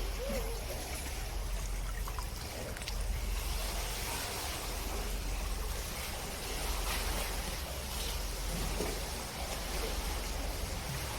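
Steady rushing of water, with a low rumble underneath.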